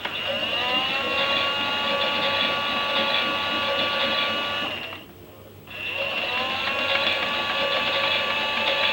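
Small electric motor of a toy Miele washing machine whining as it turns the drum: it spins up with a rising pitch, runs steadily for about four and a half seconds, stops for about a second, then spins up again, like the turn-and-pause rhythm of a wash cycle.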